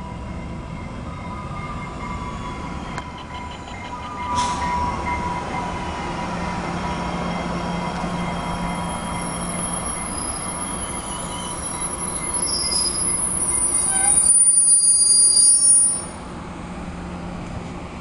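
Bombardier MR-90 electric multiple unit cars rolling past close by, with steady rumble and a low hum, and a single sharp knock about four seconds in. High-pitched wheel squeal builds in the last third, is loudest just before the end and then cuts off suddenly.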